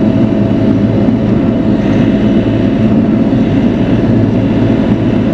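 Bobcat E42 mini excavator's diesel engine running steadily under working load.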